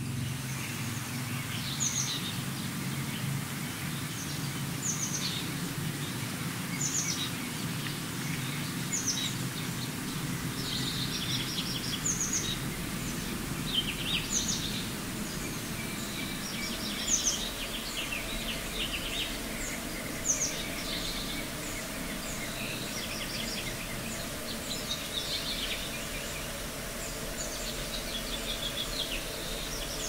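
A bird singing short, high-pitched phrases about every two seconds, over a steady outdoor background hiss with a low rumble that fades out about halfway through.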